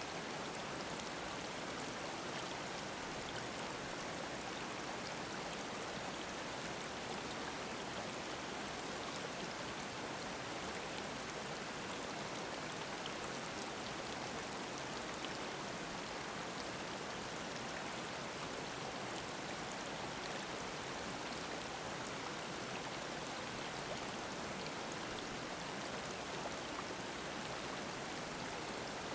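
Mountain stream babbling: a steady, even rush of flowing water.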